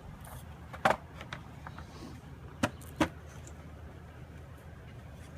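Sharp knocks of wooden beehive gear being handled: one about a second in and two close together near the three-second mark, over a steady low hum.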